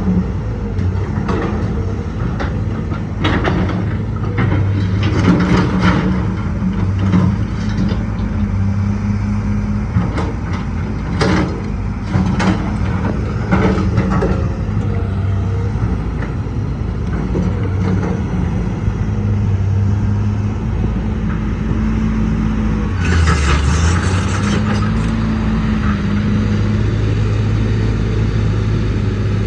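Old Caterpillar excavator's diesel engine running steadily under working load, its pitch dipping and rising a little, with a string of metallic knocks and clanks through the first half. About three-quarters of the way through comes a hiss lasting about a second.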